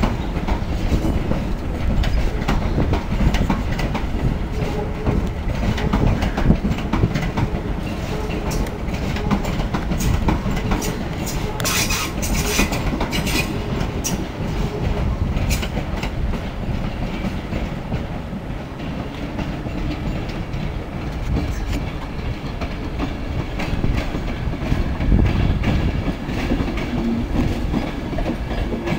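Electric trains rolling slowly over station pointwork, wheels clattering over the rail joints and crossings: a First Capital Connect Class 365 electric multiple unit pulling out, then an East Coast InterCity 225 set rolling in. A cluster of sharper clanks and metallic squeals comes about halfway through.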